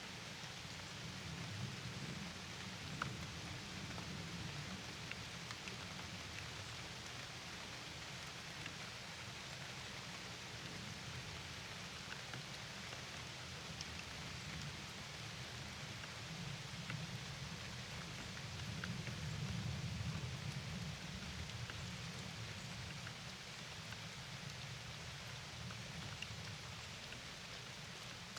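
Steady rain falling, with scattered single drops ticking close by over a low rumble that swells briefly about two-thirds of the way through.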